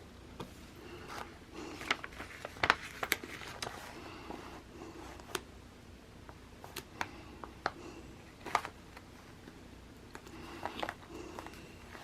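Scattered small clicks, taps and light paper rustling from sticker sheets and a planner being handled, with the sharpest taps about two to three seconds in and again past eight seconds.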